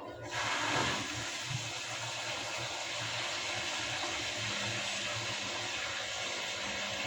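Washing machine drawing in water: a steady rush of water starts suddenly about a third of a second in as the fill valve opens, over a faint low hum.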